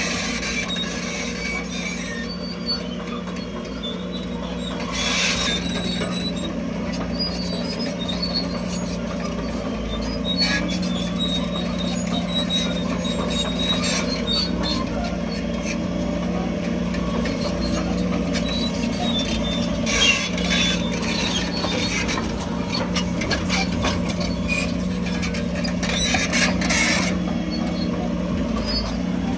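Crawler bulldozer at work: its diesel engine runs steadily while the steel tracks squeal and clank, with a few louder metallic clatters.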